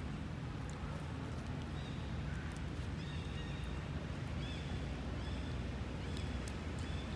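Outdoor forest ambience: a steady low rumble, like wind on the microphone, with a few faint, short, high chirps from about three seconds in.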